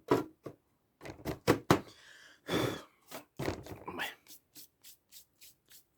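Pocket-knife blade being stroked across a sharpener to hone its tip: a few irregular scraping strokes, then a quicker, even run of short strokes, about three a second, in the second half.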